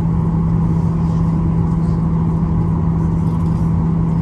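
Boeing 737-800's CFM56-7B turbofan engines heard from inside the cabin during the climb after takeoff: a steady drone with a strong constant low hum.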